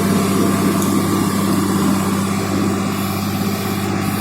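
KSRTC bus's diesel engine running steadily under load, a constant low hum with a fast, even pulse.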